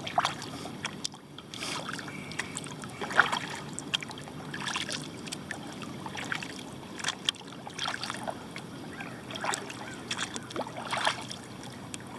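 Kayak paddle strokes splashing into calm lake water, a stroke about every one and a half seconds.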